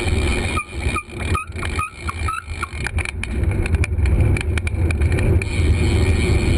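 Wind rushing over the microphone and road rumble during a bicycle ride, easing off for a couple of seconds. While it eases there is a run of about six short, high, slightly rising chirps at an even pace.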